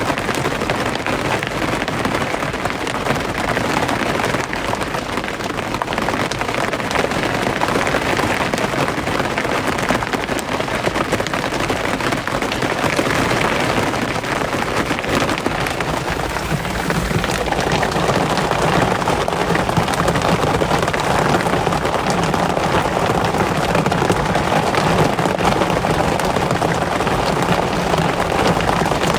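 Steady rain, a dense patter of drops. About seventeen seconds in, the sound turns lower and fuller.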